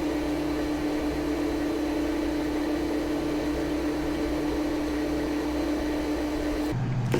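Electric appliance motor humming steadily at one constant pitch, stopping abruptly shortly before the end.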